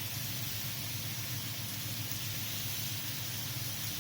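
Chicken sizzling on a hot grill, a steady hiss, with a steady low hum underneath.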